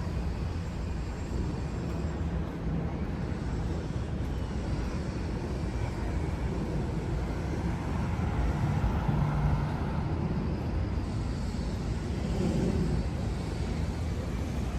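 City street traffic rumbling steadily, with a vehicle engine swelling a little louder around the middle.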